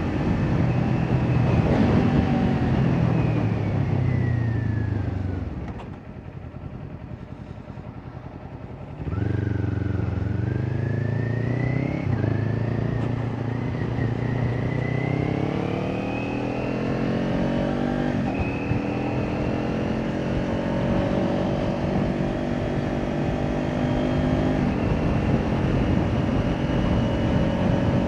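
Kawasaki Ninja 400 parallel-twin with an Akrapovic exhaust, its pitch falling as the rider rolls off and slows, then quiet for about three seconds. It comes back sharply and pulls away, rising in pitch through two gear changes before settling to a steady cruise.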